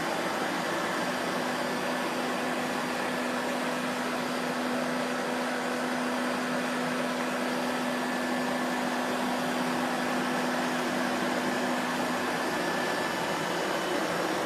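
Vacuum cleaner motor running steadily: an even rushing hiss with a faint constant hum and whine in it, no changes in pitch or level.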